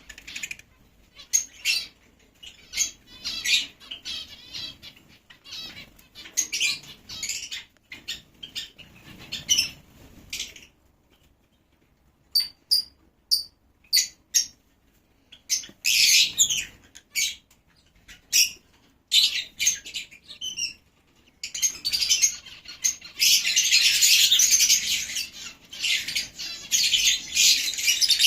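Lovebirds calling: short, sharp, high-pitched chirps at first, spaced apart, with a brief lull near the middle, then from about two-thirds of the way through a dense, continuous chattering.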